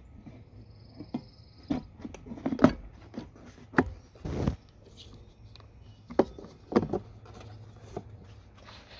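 Scattered clicks and knocks of small parts being handled on a work surface, with a short rushing noise about four seconds in.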